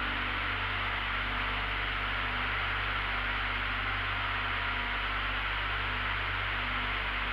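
Steady in-flight cabin noise of a small aircraft: an even rush of wind and engine noise over a constant low drone.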